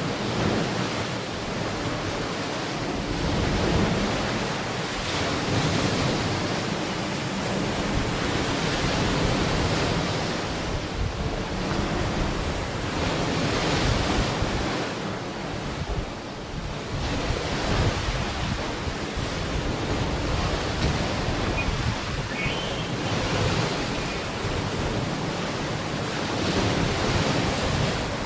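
Ocean waves washing onto a beach: a continuous rushing surf that swells and eases every few seconds.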